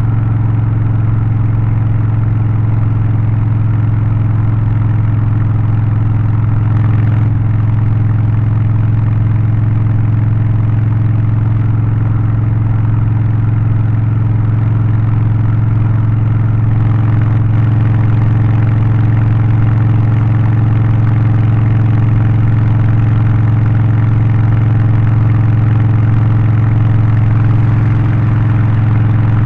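Harley-Davidson Low Rider ST's Milwaukee-Eight 117 V-twin with Stage 1 tune (aftermarket exhaust, air filter and remap) running steadily, a loud, even engine note that holds without revving.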